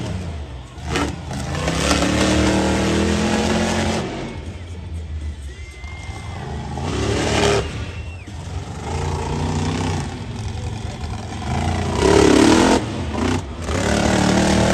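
Monster truck engine revving hard and easing off again and again, with loud surges about two, seven and twelve seconds in.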